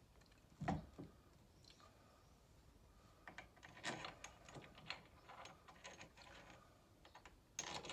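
A single knock, then a run of light clicks and taps of metal parts being handled as a replacement stairlift motor and gearbox is fitted onto the carriage.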